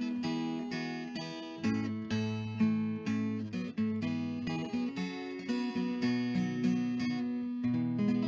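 Acoustic guitar music: strummed chords and picked notes in a steady run of attacks, with a final chord struck near the end and left ringing.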